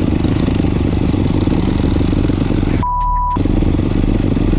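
Motorcycle engine running steadily. About three seconds in, half a second of the sound is replaced by a steady beep, a censor bleep.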